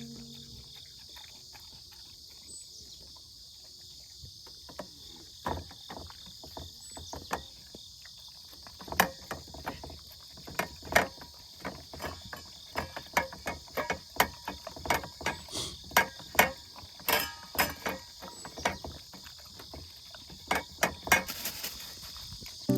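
Insects, crickets most likely, trilling steadily in a high, even drone. Irregular sharp clicks and knocks of unknown source come in from about five seconds in and grow to several a second.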